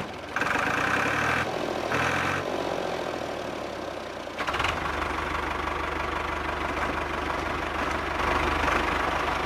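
Small electric motor of a model tractor and fan machine running steadily. About four and a half seconds in, it settles into a fuller, steady hum.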